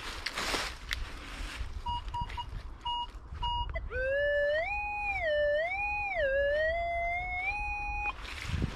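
Minelab Vanquish 440 metal detector signalling a target: a few short beeps, then a long electronic tone that rises and falls in pitch and settles on a higher steady note before cutting off.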